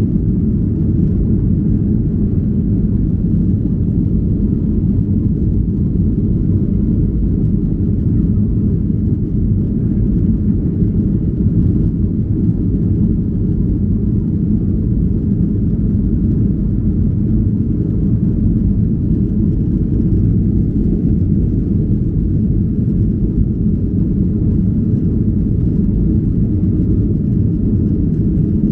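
Steady low rumble of a Boeing 737-800's cabin in flight: engine and airflow noise.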